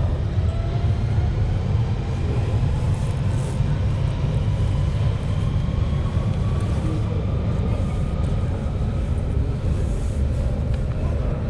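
Central Line tube train (1992 stock) running in the tunnel and station: a heavy steady rumble under a traction-motor whine that rises steadily in pitch as the train gathers speed.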